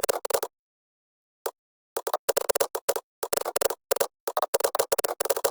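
Typing on a computer keyboard: quick runs of keystrokes, a short burst at the start, a pause, then near-continuous runs broken by brief stops.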